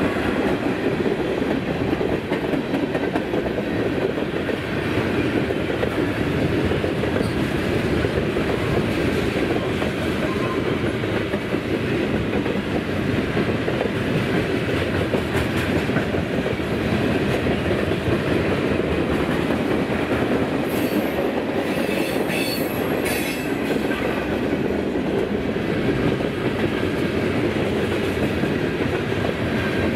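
Train rolling past, its wheels clacking steadily over the rail joints, with a few brief high-pitched wheel squeals about two-thirds of the way through.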